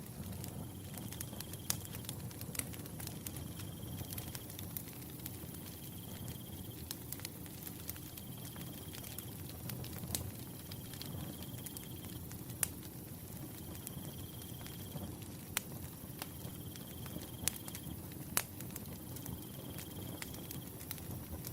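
Wood fire burning, with sharp irregular crackles and pops over a low steady hiss of the flames. A cricket trills in even phrases about a second long, repeating roughly every two seconds.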